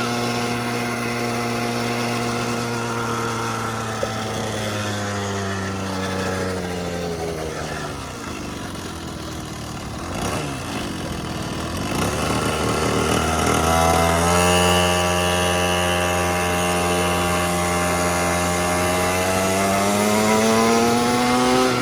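Small petrol engine of a kids' quad bike running under throttle as it is ridden. Its note falls away from about six seconds in to a low point, climbs again from about twelve seconds, holds high, and rises once more near the end.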